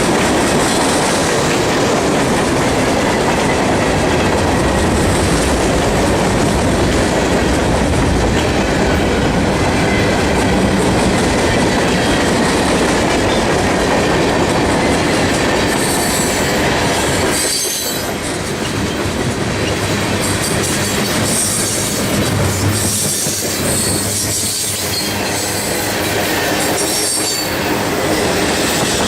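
Freight cars of a CSX mixed freight train rolling past: steady wheel-on-rail rumble with clacking over the rail joints. High-pitched wheel squeal joins in during the second half, with brief drops in level as gaps between cars go by.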